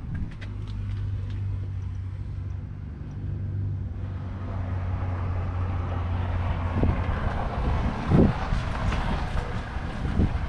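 Deutz-Fahr 7250 TTV tractor's 6.1-litre six-cylinder diesel engine running at a steady speed, growing louder and rougher from about halfway through, with a single knock near the end.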